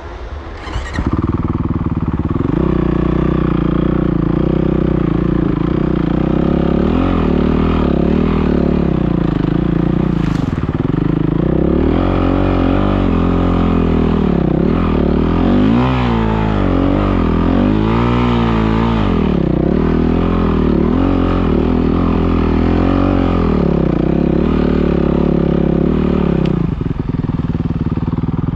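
Dirt bike engine running loud, its pitch rising and falling over and over as the throttle is worked; it starts about a second in.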